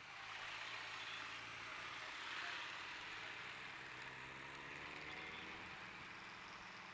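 Vehicle engine running steadily under an even rush of wind or road noise.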